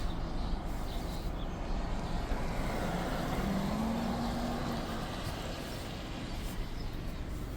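Steady road and engine noise of a car being driven, with a faint held tone rising in briefly about halfway through.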